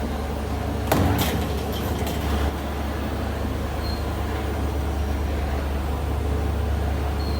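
Steady low hum of factory machinery, with a loud burst of clattering impacts about a second in that dies away after a second or so.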